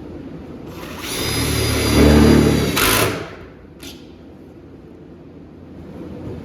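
Power drill driving a self-tapping screw into a sheet-metal firewall patch: the motor runs for about two seconds with a steady whine, followed by a short click.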